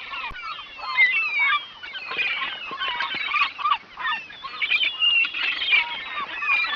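A flock of birds calling, many short calls overlapping without a break.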